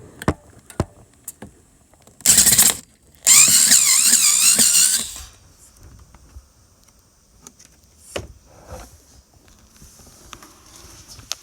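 Power drill running in two bursts, a short one and then a longer one of about two seconds whose whine wavers in pitch, with scattered clicks and knocks of handling around them.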